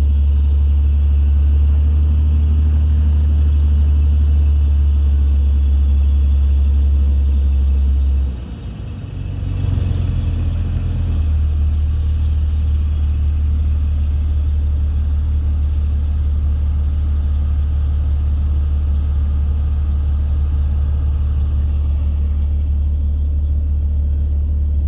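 Jeep Cherokee XJ engine running steadily while driving through deep snow, a low drone that dips briefly about eight seconds in and then comes back.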